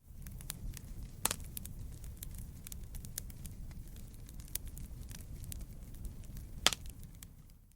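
Wood fire crackling in a fireplace: a steady low rumble of flames with many small crackles and two sharp pops, one about a second in and one near the end. It fades in at the start and fades out at the end.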